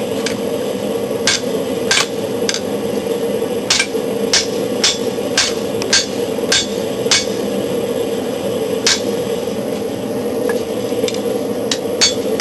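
Hammer blows on a hot steel knife blade on the anvil, struck about twice a second with a short pause midway and lighter taps near the end: the smith is straightening the banana-shaped curve out of the blade's drawn-out edge. Behind them the small forced-air gas forge rushes steadily.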